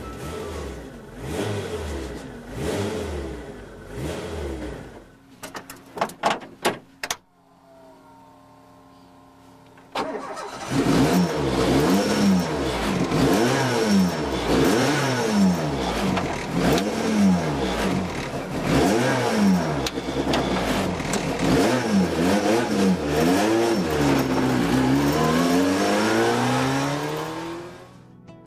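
Lancia 037's supercharged four-cylinder engine revving up and dropping back again and again. A few sharp clicks come about six seconds in, then a few seconds of much quieter sound, before the engine comes back loud at about ten seconds and keeps revving up and down until it fades near the end.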